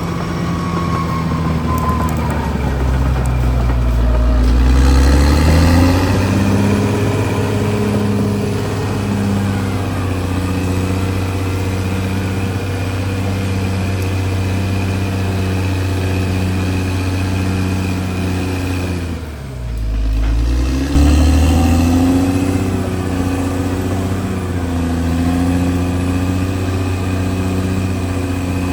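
Diesel engine of a CAT D6R XL bulldozer running under load, with its pitch dropping and then rising a few seconds in. About two-thirds of the way through it dips briefly and then picks up again.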